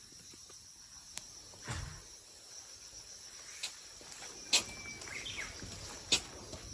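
Steady high-pitched insect chirring, with a handful of short sharp clicks or knocks, the loudest about four and a half and six seconds in.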